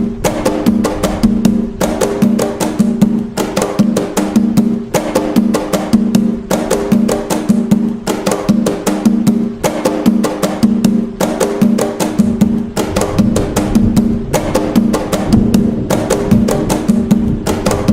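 Atabaque drums playing the nagô rhythm (toque de nagô): a fast, evenly repeating pattern of strikes with a ringing low drum tone, going on without a break.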